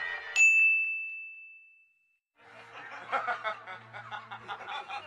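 A single bright ding chime about half a second in, ringing out and fading over a second and a half. After a short silence, a man's chuckling laughter from a film clip, used as a meme sound effect.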